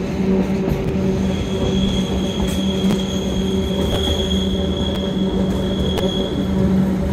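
Narrow-gauge electric train running, with a steady low hum. Its wheels squeal with a high, steady tone from about a second in until near the end, on a curve. A few sharp clicks come from the track.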